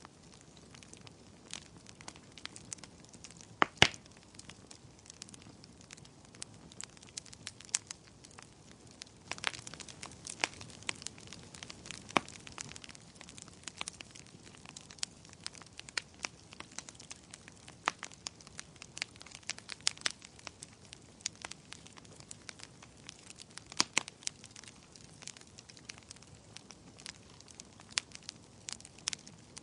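Wood fire burning in a fireplace: a low steady hiss under irregular crackles and sharp pops, a few of them much louder than the rest.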